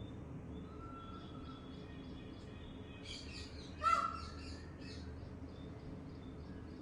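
Songbirds chirping: faint short high chirps, then a brief flurry of calls with one louder, lower call about four seconds in, over a steady low background rumble.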